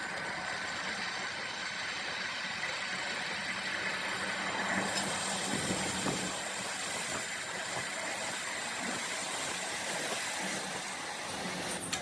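Multi-spindle drilling machine running steadily while drilling a cast iron sewing machine frame, a continuous even machine noise with a faint low hum.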